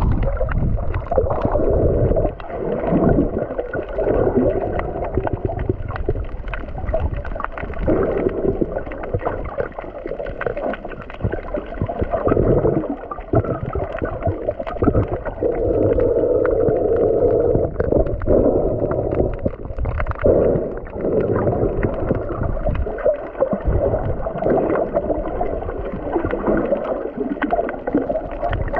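Muffled sloshing and gurgling of seawater heard underwater while snorkeling, swelling and fading every few seconds, with scattered sharp clicks.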